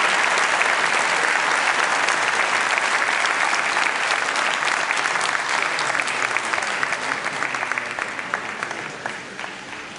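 Audience applauding, the clapping thinning and fading over the last few seconds.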